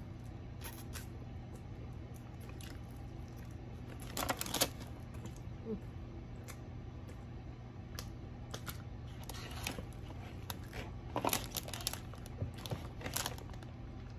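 Close-up crunching and chewing of crispy broasted fried chicken, coming in a few short bursts, the loudest about four seconds in and again near the end, over a steady low hum.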